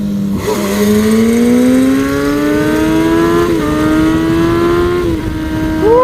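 2009 Kawasaki ZX-6R's inline-four engine pulling under acceleration, its pitch rising steadily, with a brief dip about three and a half seconds in before climbing again, then holding steady near the end.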